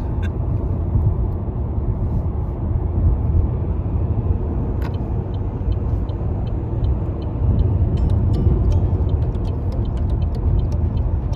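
Car driving at road speed, heard from inside the cabin: a steady low rumble of road and engine noise. In the second half, light ticks repeat about two or three times a second.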